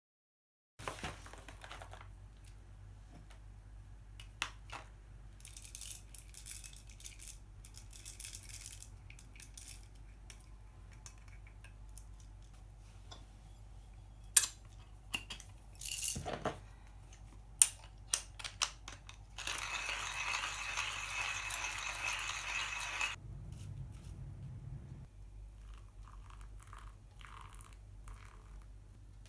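Metal cookware and camp gear being handled: scattered clinks and knocks, two sharp clanks a few seconds apart near the middle, and a steady hiss lasting about three and a half seconds.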